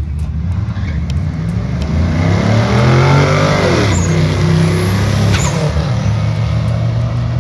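Drag car's engine accelerating hard: its pitch climbs for a couple of seconds, drops about four seconds in, then holds a steady lower drone.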